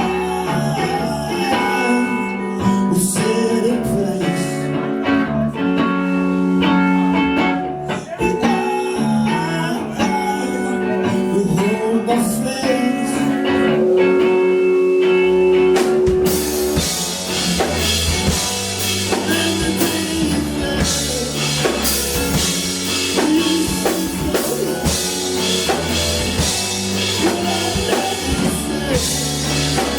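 Live band music: a guitar-led passage of held, layered notes, with the full band and drums and cymbals coming in about halfway through.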